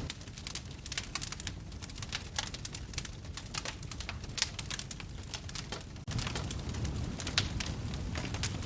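Wood fire in a fireplace crackling: a run of sharp pops and snaps over a steady low rumble of the flames. About six seconds in the sound breaks off for an instant and the low rumble comes back louder.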